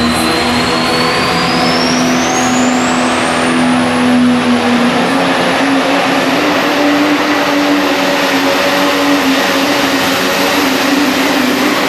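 Super stock diesel pickup truck at full throttle during a pull, its engine running loud and steady. A high turbocharger whine climbs in pitch over the first few seconds, then holds high and steady.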